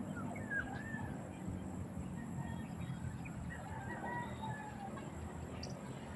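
Birds calling: a few short calls that rise and fall in pitch, over a steady low rumble.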